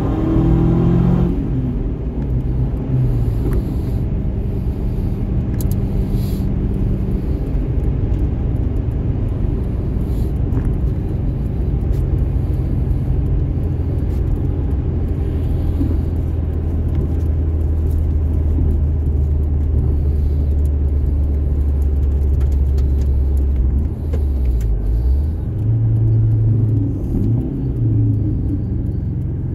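Subaru Impreza WRX STI's turbocharged flat-four engine running at steady, fairly low revs: a low drone holding for most of the stretch. The revs change briefly at the start, then dip and rise again a few seconds before the end.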